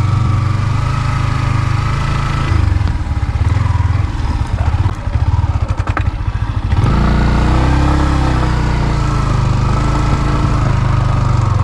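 Motorcycle engine running while riding. It eases off and runs unevenly for a few seconds in the middle, then picks up again and runs steadily from about seven seconds in.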